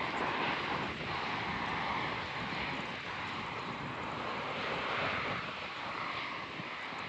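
Jet engines of a large airliner, most likely the Airbus A380, a continuous loud rushing noise that swells and eases slightly.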